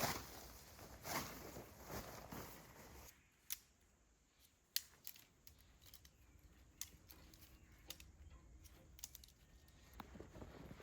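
Faint rustling handling noises, about one swish a second for the first three seconds, then a scattering of sharp light clicks and taps.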